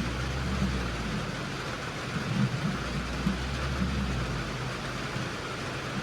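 A vehicle engine running steadily under an even hiss, with irregular low bumps and rumbles throughout.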